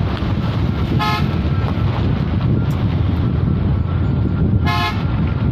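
A vehicle horn gives two short toots, about a second in and again near the end, over the steady low rumble of a vehicle on the road.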